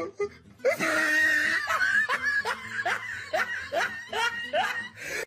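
A person laughing, breaking from about two seconds in into a run of short, even bursts of about three a second.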